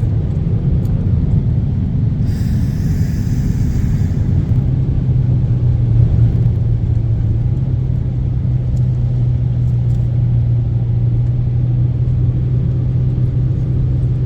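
Car driving through flood water, with a steady low rumble. A steady engine hum sets in about four and a half seconds in, and there is a brief hiss between about two and four seconds.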